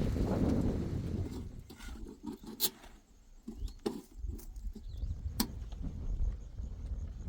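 Wind rushing on the microphone, fading out over the first second or so, then a low outdoor rumble with a few sharp knocks or clicks.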